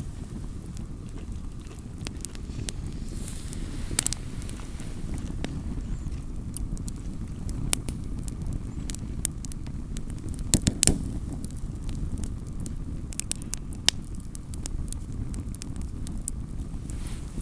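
Wood campfire crackling: scattered sharp pops and snaps, with a few louder pops about ten to eleven seconds in, over a steady low rumble.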